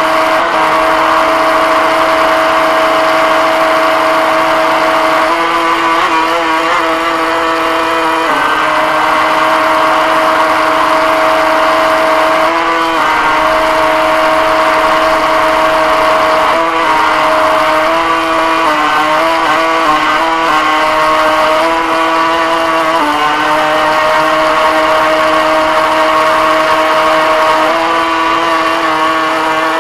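Viper radio-controlled boat's motor running, picked up close by a keychain camera mounted on the boat. A steady whine that shifts a little in pitch several times as the throttle changes.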